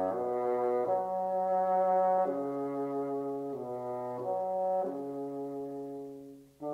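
Background music: a classical piece played on bassoon, slow held notes moving stepwise. The phrase fades out and a new one begins near the end.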